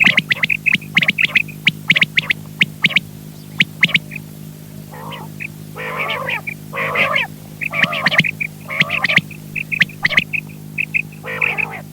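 Quail calling: quick runs of short, high, repeated notes, joined from about five seconds in by harsher, fuller calls roughly once a second. A steady electrical hum runs underneath.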